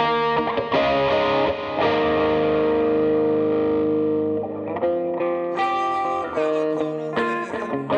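Electric guitar through a Line 6 Helix amp-modeler patch with overdrive and effects, playing a lead line: picked notes, then one long sustained note from about two seconds in, then more picked notes near the end.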